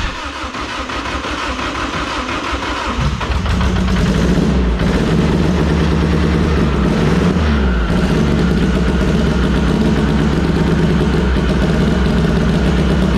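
Turbocharged four-cylinder Honda race car engine cranking on the starter, with a backfire pop and a fireball from the exhaust right at the start. About three seconds in it catches and settles into a steady idle, cold and firing on only two of its four cylinders.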